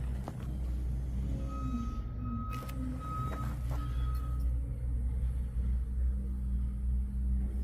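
Car engine running with a steady low rumble; a steady high tone sounds for about two and a half seconds, starting about a second and a half in.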